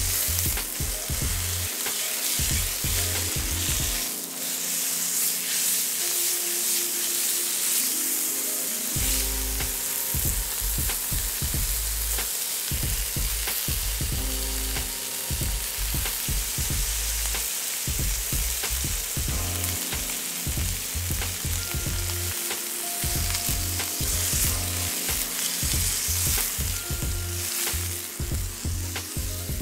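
Steak searing in a very hot oiled pan with a steady sizzle, followed by sliced onions and bell peppers frying in the same pan.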